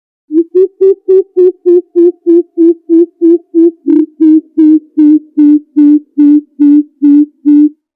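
Greater coucal calling: a long, even series of about twenty deep hoots, about three a second.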